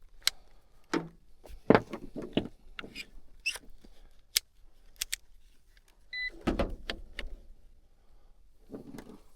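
Scattered clicks, knocks and rustling as a multimeter and its test leads are handled, with one brief high beep about six seconds in.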